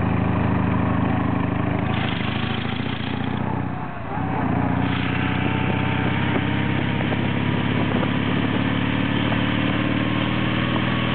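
Soviet-pattern flat-twin motorcycle engine running steadily while riding. The engine note dips briefly about four seconds in, then picks back up.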